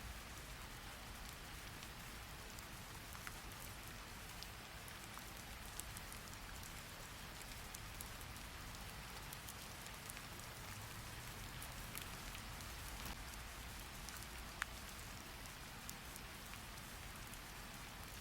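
Steady rain falling, an even hiss with scattered light drip ticks.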